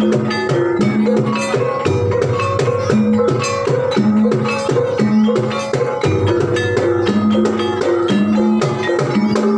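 Banyumasan gamelan music: tuned mallet percussion playing quick repeating melodic patterns over hand-drum strokes.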